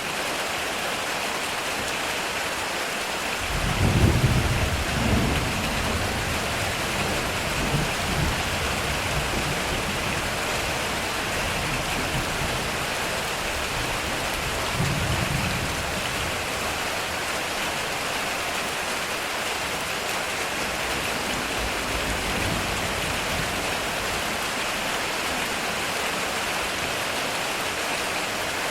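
Heavy rain pouring steadily on a metal roof. A rumble of thunder breaks in about three and a half seconds in and rolls on unevenly for several seconds, swelling again about fifteen seconds in.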